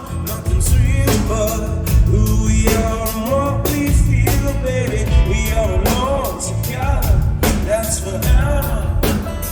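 Live rock band playing full out: singing over electric guitars, bass and a drum kit keeping a steady beat.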